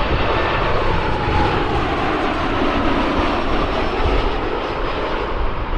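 Airplane jet engine noise: a steady rush with a faint whine that slowly falls in pitch.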